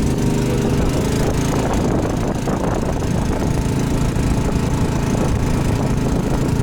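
Small engine running steadily at a constant speed, with an even hum that does not rise or fall.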